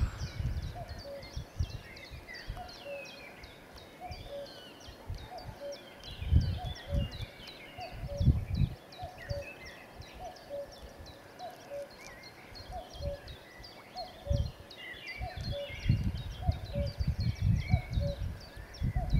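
Many small birds chirping throughout, with one low note repeated at a steady pace. Irregular low bumps and rumbles come and go and are the loudest sounds, strongest in the middle and near the end.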